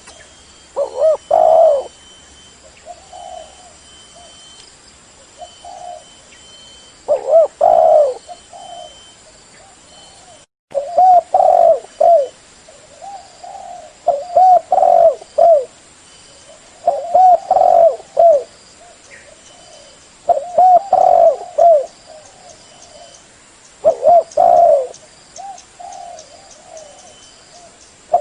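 Spotted dove cooing over and over, its low, throaty phrase repeated every three to four seconds, with softer coos between the loud phrases.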